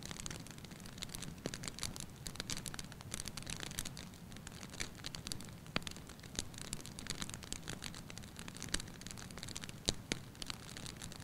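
Wood fire burning in a fireplace: a steady low rumble of the flames with frequent irregular crackles and pops, a few sharper pops standing out.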